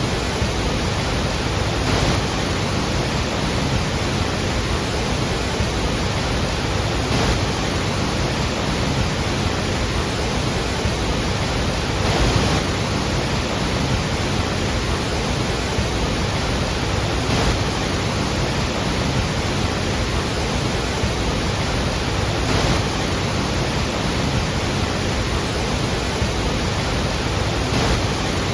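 Iguazu Falls, a very large waterfall, falling steadily: an even, dense rush of water with a slight swell about every five seconds.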